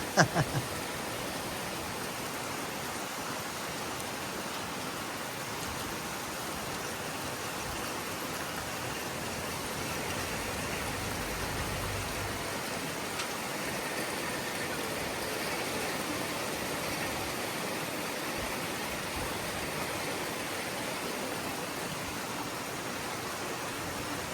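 Heavy rain falling in a steady, even hiss during a rainstorm.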